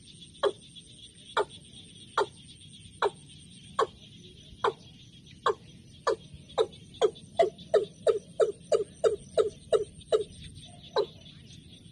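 A bird calling with a series of short notes that slide downward, about one a second at first, speeding to about three a second in the middle and then slowing again. This is typical of a decoy hen in a trap cage calling to draw in a male. A steady high insect trill runs behind.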